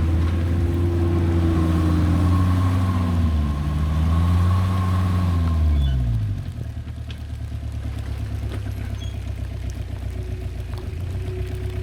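1997 Jeep Cherokee XJ's 2.5-litre VM Motori turbo diesel engine working off-road: the revs rise and fall twice, then drop about six seconds in to a steady, quieter low-rev run with a few light clicks.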